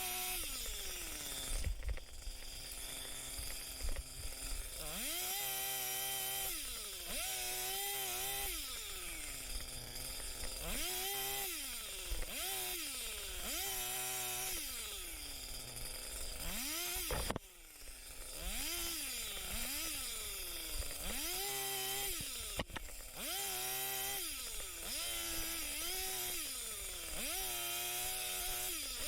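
Two-stroke chainsaw revved up and let back down over and over, about a dozen short bursts of a second or so each, as it cuts brush.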